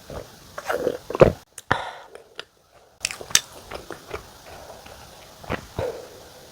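Close-miked chewing and wet mouth sounds of someone eating soft mocha cream bread: irregular smacks and clicks, broken by a brief silence about two and a half seconds in.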